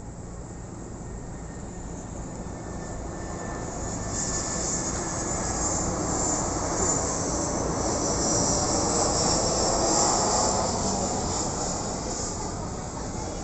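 Airplane flying past, its engine noise swelling gradually to its loudest about ten seconds in, then fading.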